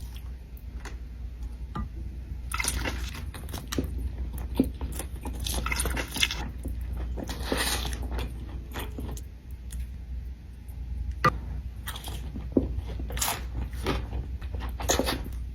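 Close-up eating sounds: biting into and chewing crispy fried chicken tenders, with irregular crunches and chewing clicks.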